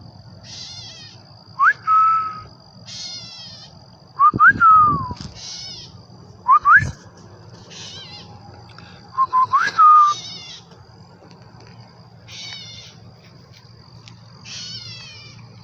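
A person whistling short notes that slide up and then hold, four times, alternating with a bird answering in repeated bursts of quick, high chirps. The whistles are the loudest sounds, and a faint steady high tone runs underneath.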